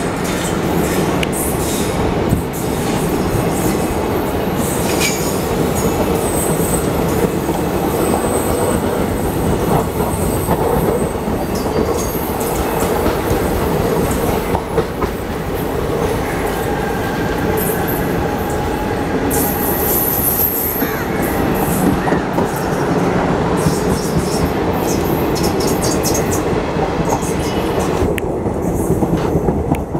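Passenger coaches of an Indian Railways train rushing past close by: a loud, steady rumble of steel wheels on rail with a rapid clickety-clack over the rail joints. A brief high squeal of the wheels comes about twenty seconds in.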